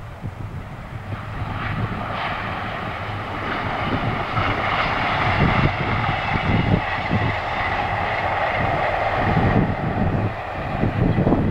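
Diesel train passing at speed: a CrossCountry Voyager diesel multiple unit, its under-floor engines and wheels making a steady rushing drone that builds over the first couple of seconds and then holds. Wind buffets the microphone underneath it.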